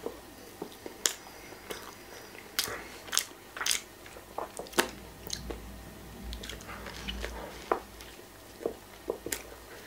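A person biting and chewing a grilled ham-and-cheese sandwich close to the microphone, with irregular sharp clicks.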